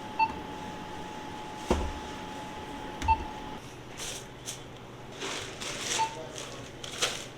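Electronic beeps at a shop checkout: two short beeps about three seconds apart over a steady tone, with a couple of dull thumps. In the second half, short bursts of crinkly rustling.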